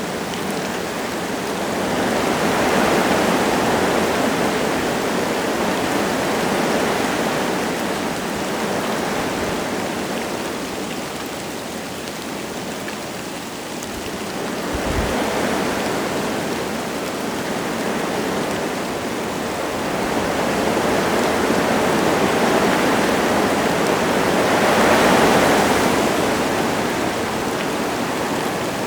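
Wind gusting through forest trees with light rain falling: a steady rushing noise that swells and eases in slow gusts, strongest near the end. A brief low thump about halfway through.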